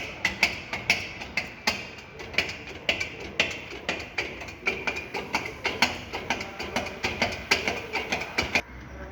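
Repeated hammer strikes in a workshop: sharp knocks at an uneven pace, about three a second, each with a short ring, stopping suddenly near the end.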